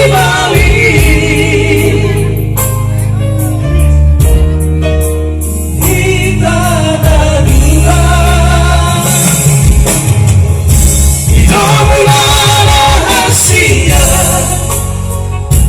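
Batak pop song sung by a vocal trio in harmony, the voices wavering with vibrato over a band with a strong, steady bass.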